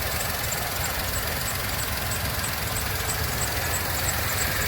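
Skoda Fabia three-cylinder petrol engine idling steadily with a faint regular ticking, running on new original VW spark plugs and a new ignition coil fitted to cure a misfire.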